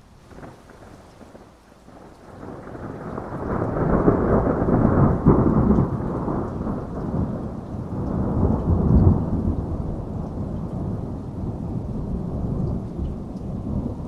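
A long rolling peal of thunder over heavy rain: the rumble builds over a couple of seconds, peaks twice, and fades slowly near the end.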